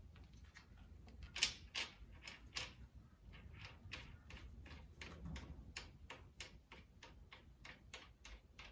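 Light metal clicks as the new top nut is run down by hand onto the motorcycle fork: a few sharper clicks in the first few seconds, then an even run of about three light clicks a second.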